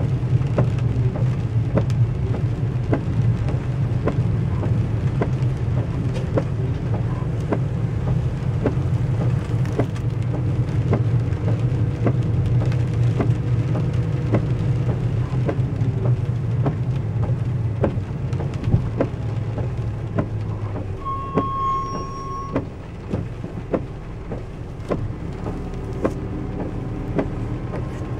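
Heavy rain drumming on a car's roof and windshield, heard from inside the cabin as dense, irregular ticks of drops over a steady low hum of the moving car. The low hum drops away about three-quarters of the way through, and about then a brief steady beep sounds.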